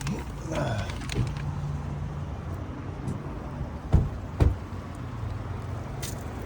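Car engine running low and steady as the car pulls in, with a tone falling in pitch in the first second or so. Two sharp thumps about half a second apart come around the middle.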